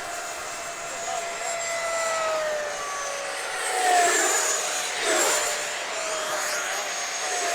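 Electric ducted-fan RC jets flying past with a high whine that glides down in pitch as they pass, loudest about four seconds in.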